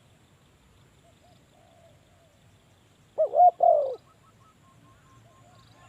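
Spotted dove cooing: one loud, close phrase of about three coos roughly three seconds in, with fainter coos from other doves before and after it.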